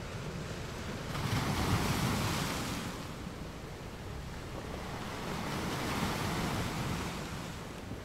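Ocean surf: waves washing in and drawing back, one swelling about a second in and another around five seconds in, each rising and then falling away.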